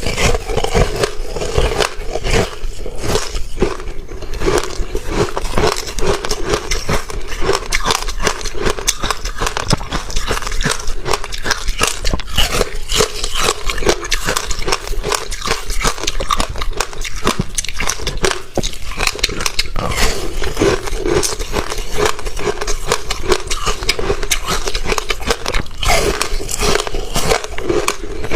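Close-miked crunching of frozen ice being bitten and chewed: dense, continuous crackling and cracking.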